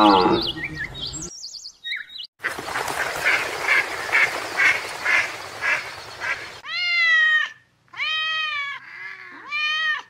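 A string of animal calls. A pitched call trails off at the start, a few high chirps follow, and then comes a run of duck quacks about two a second over a hiss. Near the end there are three drawn-out honking calls.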